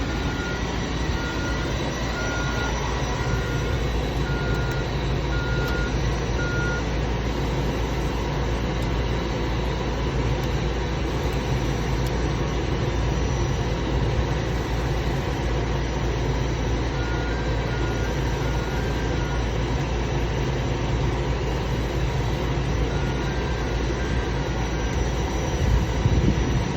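Steady low machinery drone with a faint high whine, with runs of short, evenly spaced electronic beeps: one run over the first seven seconds, two shorter ones later.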